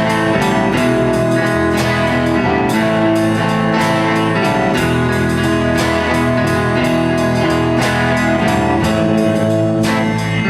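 A band playing an instrumental guitar passage in a bluesy rock style, with bass underneath and frequent strummed or picked strokes.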